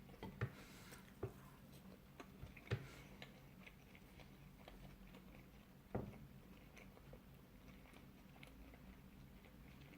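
Faint eating sounds: a few scattered clicks of biting and chewing pizza, the sharpest near the start, around three seconds in and at about six seconds, over a low steady hum.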